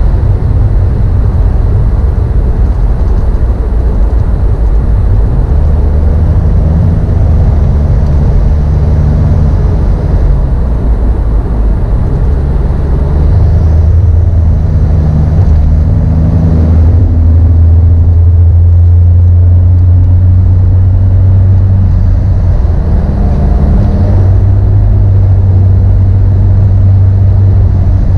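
A car engine running while driving, a loud low drone whose pitch steps up and down several times as the speed changes, loudest a little past halfway.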